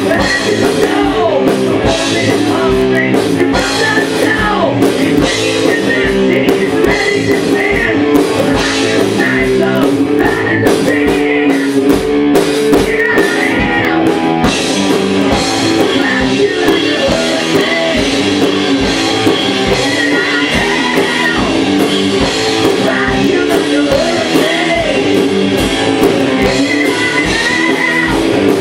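Loud rock music: electric guitar over a drum kit keeping a steady beat.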